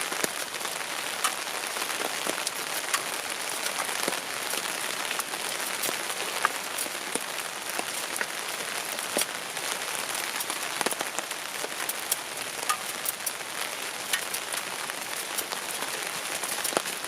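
Steady rain falling, a continuous patter with many scattered sharper drop taps.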